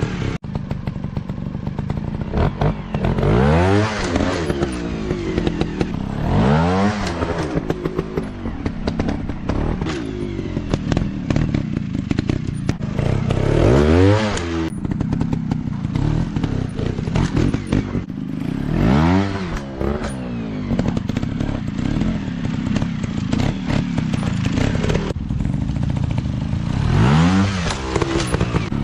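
Dirt bike engines running, revving up and dropping back again and again, about six strong rises in pitch, over a steady engine rumble with scattered clatter.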